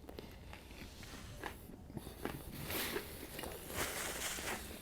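A person chewing a sandwich close to the microphone: wet mouth clicks and soft crunches, getting busier about halfway through.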